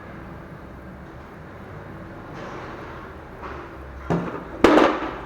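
Hard plastic engine cover being handled and set aside: a sharp knock about four seconds in, then a short, louder plastic clatter, over a steady low hum.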